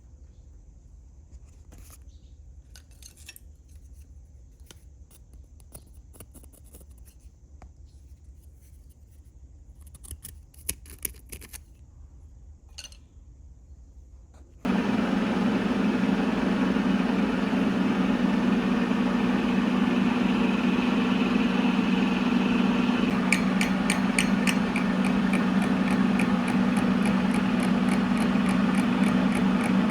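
Faint scattered clicks and taps. About halfway, a loud, steady machine hum starts abruptly and keeps running, and a fast, regular ticking joins it near the end.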